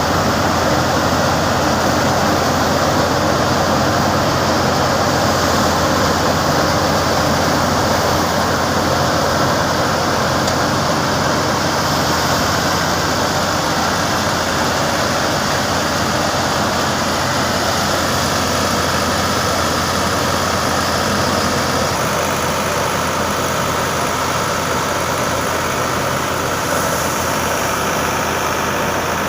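Tractor engine driving a wheat thresher, both running steadily under load: a constant low engine hum under a dense, even rush of machine noise from the thresher.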